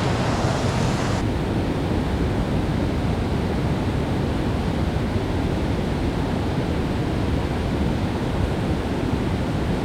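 Steady rushing noise of high water below a dam with wind on the microphone, heavy in the low end; its higher hiss drops away about a second in.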